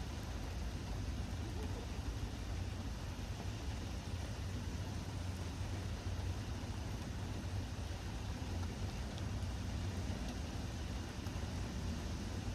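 Steady rain falling, a constant hiss over a low, unbroken rumble.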